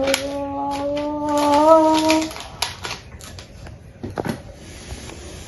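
A voice holds a long hummed note for about two seconds, rising slightly at the end. Over and after it come small clicks and crackles of clear adhesive tape and a plastic cup being handled, with a couple of sharper clicks near the end.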